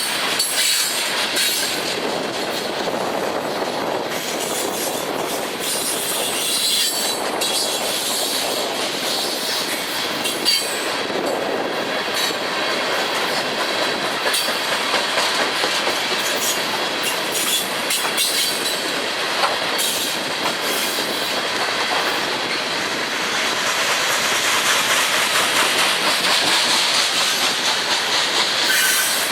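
Freight train cars rolling past at steady speed, wheels clicking over the rail joints, with steel wheel squeal at times.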